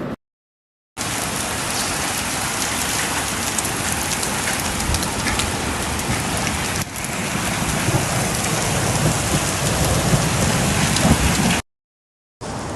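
Heavy rain and hail pelting down: a dense, loud hiss dotted with many sharp ticks. It cuts out to silence briefly just after the start and again near the end.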